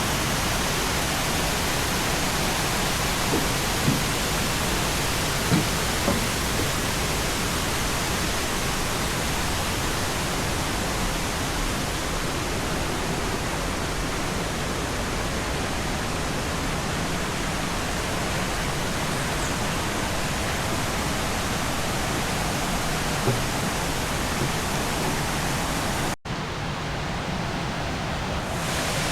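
Steady rush of water from a waterfall cascade on a limestone stream, with a few light knocks in the first seconds and a momentary break in the sound near the end.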